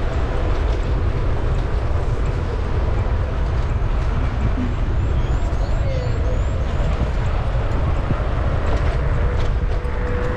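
City street noise heard from a moving bicycle: a steady low rumble of wind and road noise on the microphone, with traffic going by.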